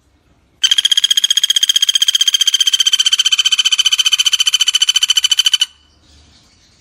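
Common flameback woodpecker (pelatuk bawang) giving one long, fast rattling trill of about a dozen notes a second. It starts about half a second in, lasts about five seconds and cuts off sharply.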